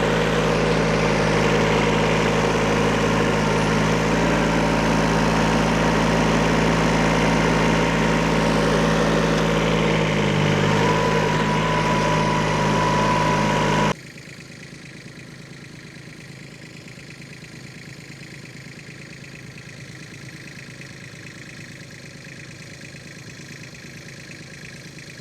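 Small Kubota tractor's diesel engine running steadily while shuttling dirt, its pitch shifting slightly about ten seconds in. About halfway through it cuts off abruptly to a much quieter steady hum.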